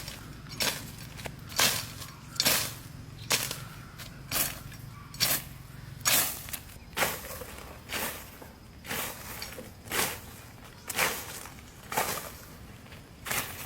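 A steady series of short, sharp crunching strikes, about one a second, each fading quickly.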